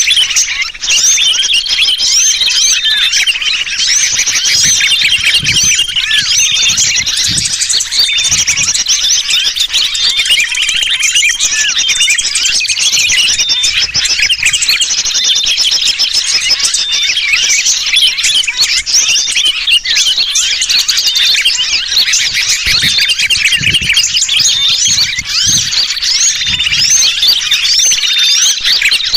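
Bird-trapping lure call: a continuous, dense din of many small birds chirping noisily, mixed with the distress calls of a sooty-headed bulbul (kutilang) as if caught.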